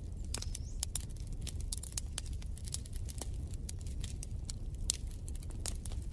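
Wood fire in a fireplace crackling: many irregular snaps and pops over a steady low rumble of flames.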